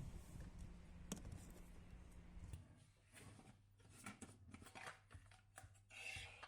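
Quiet handling sounds in a small room: a sharp click about a second in, then a scatter of light clicks and rustles and a short hiss near the end. A low hum stops about two and a half seconds in.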